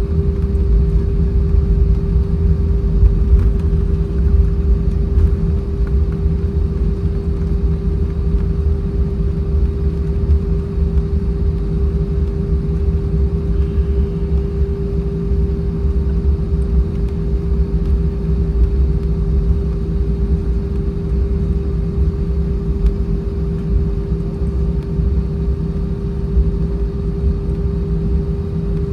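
Airbus A320 cabin noise while the aircraft taxis after landing: a steady low rumble from the wheels and airframe, with a constant hum from the engines at idle.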